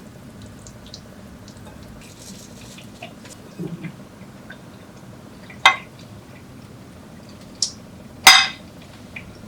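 Kitchen dishes and utensils being handled, with a few sharp clinks and knocks; the loudest two come about two and a half seconds apart in the second half.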